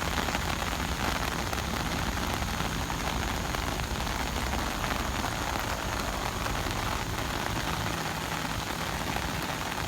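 Steady rushing hiss of water with a low rumble underneath, from the flooded river running high.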